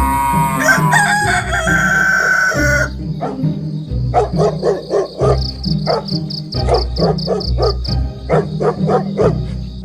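A rooster crowing once, a long call that rises and falls over the first three seconds, over background music with a steady beat. The music carries on with quick repeated notes after the crow.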